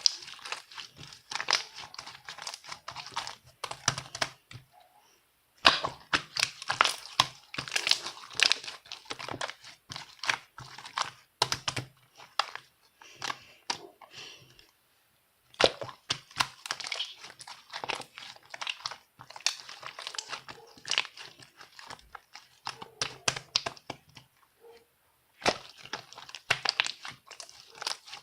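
Crackling and crinkling handling noise: dense runs of quick crackles and clicks lasting several seconds, broken by short pauses.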